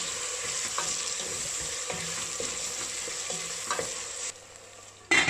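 Onion and tomato frying in oil in a stainless steel pot, sizzling steadily while a wooden spatula stirs and scrapes them. The sizzle cuts off about four seconds in, and near the end a loud metallic clank follows, the steel lid going onto the pot.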